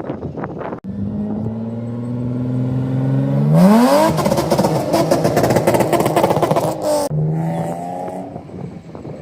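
Car engine at a steady note, then revved sharply, its pitch climbing fast into about three seconds of loud high-rev running. It cuts off suddenly and returns to a steady lower note that fades.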